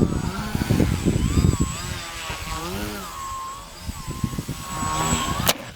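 Model plane's motor and propeller whining in flight, the pitch wavering up and down as it manoeuvres, with strong wind buffeting the microphone. A single sharp click comes just before the end.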